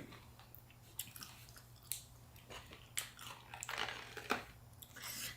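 Close-miked chewing of a fresh spring roll, with crisp crunches from the raw vegetables and shrimp, and scattered wet mouth clicks about once a second.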